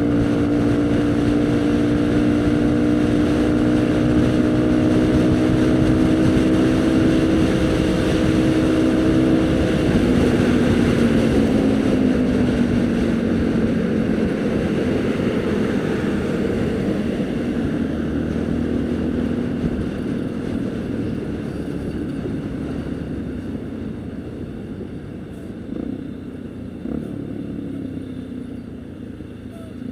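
Haojue NK150 single-cylinder motorcycle engine under way, holding a steady note that slowly climbs, then the throttle closes about a third of the way in and the pitch drops as the bike slows. Engine and rushing-air noise fade gradually, with a couple of light knocks near the end.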